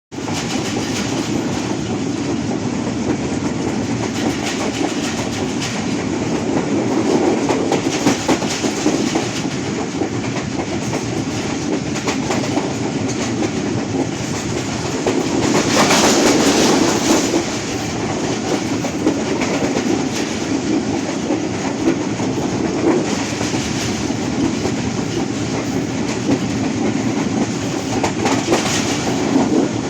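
Moving train running along the track, a steady rumble of the cars and wheels on the rails, growing louder for a couple of seconds about halfway through.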